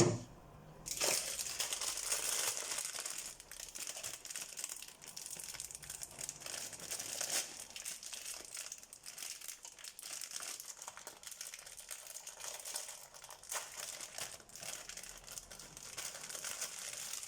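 Packaging crinkling and rustling as it is handled and opened, a steady run of crackles.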